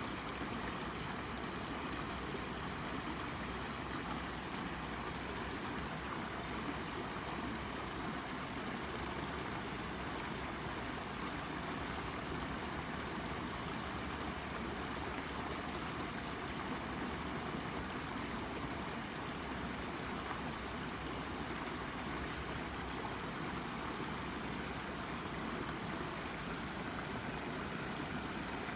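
Shallow brook babbling over a rock, a steady trickling, gurgling rush of water.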